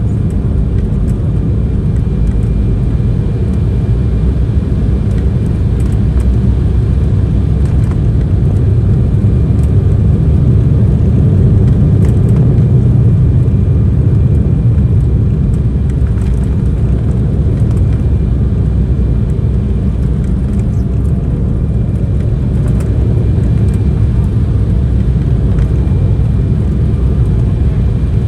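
Embraer E190 airliner cabin noise from a window seat: a steady, loud rumble of engines and airflow, swelling slightly about halfway through.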